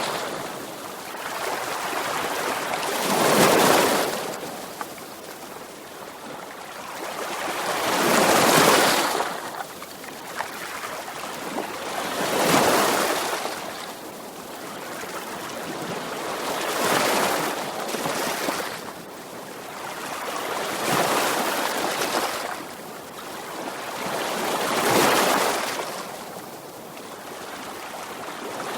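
Sea waves breaking on a shore in a steady rhythm, a wave about every four seconds, each one building to a crash and then fading away.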